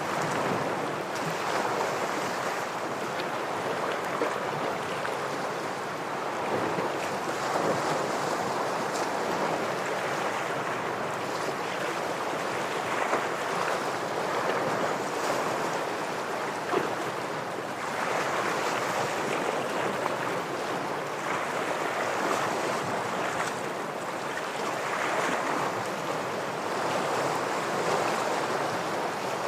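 Ocean surf washing against rocks: a continuous rushing wash that swells and eases every several seconds as waves break.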